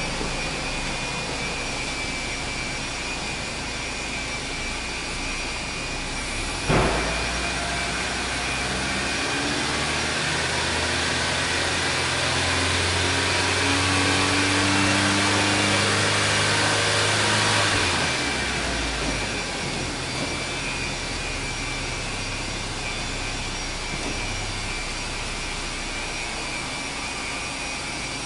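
Subaru R2's 660 cc four-cylinder engine and exhaust idling, with a sudden sharp jump about seven seconds in, then the revs held up and climbing slowly for about ten seconds before dropping back to idle.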